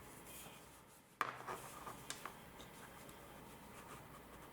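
Faint handling of a wristwatch with a leather strap and buckle: light rubbing, a sharp click a little over a second in, then a few small ticks.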